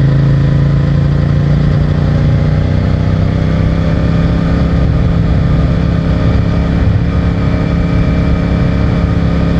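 CFMOTO 450MT's parallel-twin engine through its stock exhaust, pulling at a steady cruise with the engine note holding nearly constant pitch.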